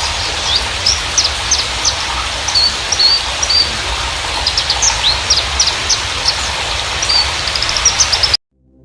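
Javan bushlark (Mirafra javanica parva) song used as a lure recording to prompt caged bushlarks to sing: a rapid run of high chirps and short trills over a steady hiss, cutting off suddenly near the end.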